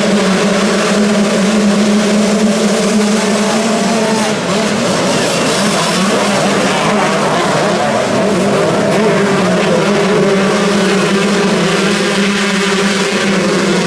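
Motocross motorcycle engines running hard, their pitch holding steady and then wavering up and down about halfway through as the bikes rev.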